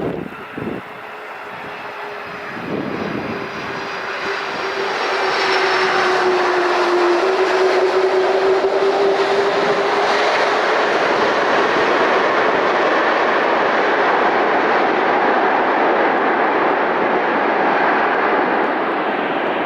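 Boeing 767-300 jet engines roaring as the airliner comes in to land, the sound building over the first few seconds to a loud, steady roar. A whining tone rides on it and drops slightly in pitch as the jet passes. Gusts of wind buffet the microphone near the start.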